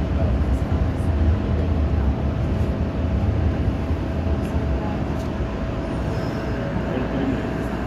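MTR M-Train (metro EMU) running: a steady low rumble of wheels and running gear with a faint steady whine, easing slightly in loudness over the second half.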